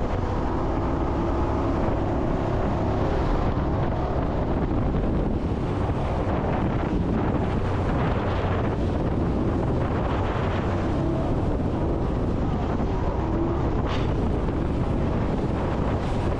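Jet boat running at speed: a steady engine drone under heavy wind buffeting on the microphone. A single sharp click comes about fourteen seconds in.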